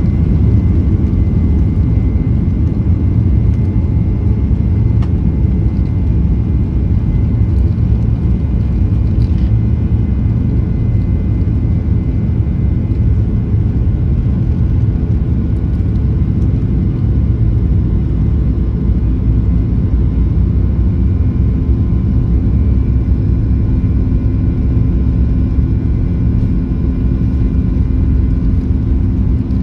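Cabin noise of a Boeing 737-800 heard from a forward seat: a steady, loud, low rumble of the CFM56-7B engines and airframe at full takeoff thrust, with faint steady engine tones above it.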